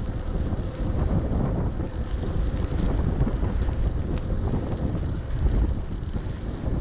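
Strong wind buffeting a GoPro's microphone while riding an e-bike: a steady low rumble that surges unevenly with the gusts.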